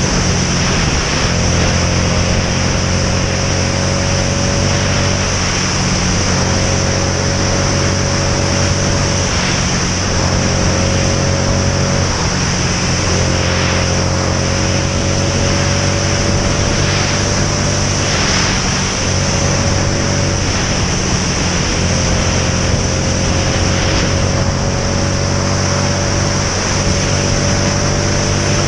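Motorcycle engine running on the move under heavy wind rush. The engine note climbs slowly and drops back about four times.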